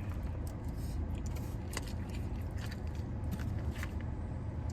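Someone chewing and biting food close to the microphone, with scattered small crunchy clicks over a steady low hum.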